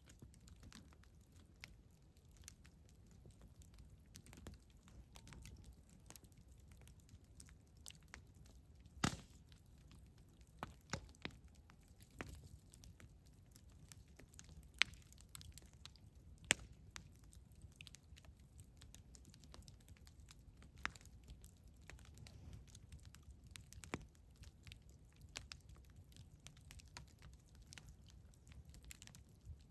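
Campfire crackling: irregular small snaps and pops over a low rumble, with a handful of sharper pops.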